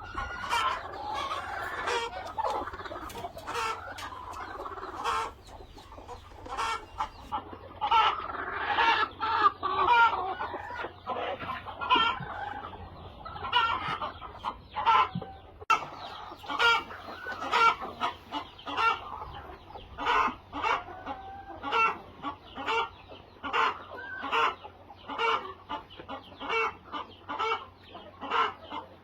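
A flock of chickens clucking: many overlapping calls in the first half, then a steadier run of short repeated clucks.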